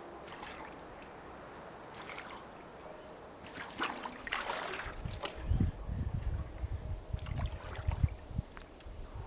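Water sloshing and trickling, starting about four seconds in after a quiet opening, with irregular low surges and bumps from about five seconds on.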